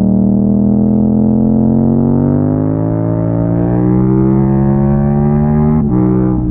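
Yamaha MT-07's parallel-twin engine pulling steadily up through the revs under hard acceleration. Quick upshifts near the end cut the pitch down sharply before it pulls again.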